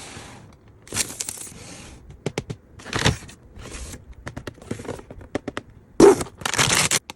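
Blind-box packaging being handled and torn open: a series of crinkling and rustling bursts with sharp clicks and snaps, the loudest near the end.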